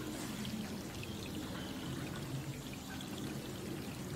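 Steady rain falling on the surface of a pond: an even hiss with a dense patter of drops.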